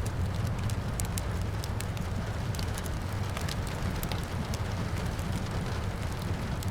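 Wood fire crackling, with sharp irregular pops and snaps over a steady low rumble and a soft hiss of rain.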